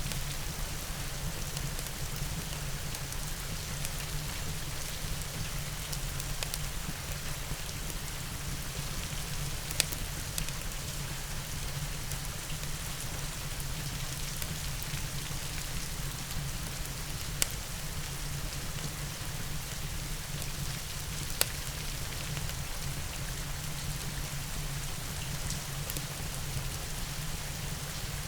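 Steady rain falling, an even hiss with a low rumble under it, broken by three sharp pops from a crackling wood fire.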